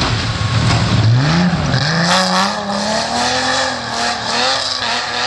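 BMW E30 rally car's engine at full throttle on a snow stage: a low drone that climbs in pitch about a second in, then rises and falls over and over as the driver works the throttle and gears.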